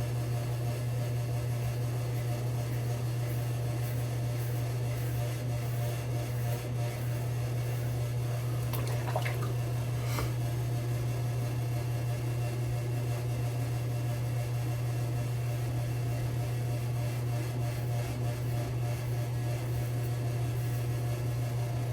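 Faint scraping strokes of a double-edge safety razor on a second shaving pass, over a steady low hum that runs throughout.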